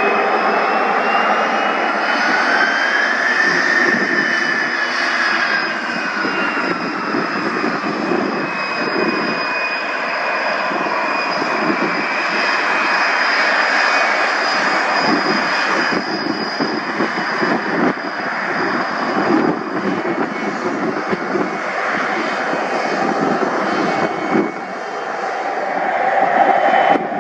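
Fixed-wing aircraft engine running loudly. A whine rises and then falls over the first several seconds, and a steady high tone fades out later on.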